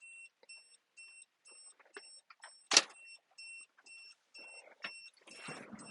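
Warning beeper in the Suzuki mini truck's cab, beeping steadily about twice a second, with one sharp click about three seconds in.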